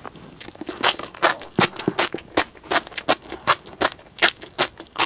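Tobiko (flying fish roe) popping and crunching as it is chewed with the mouth closed: sharp crisp pops in a steady rhythm, about three a second.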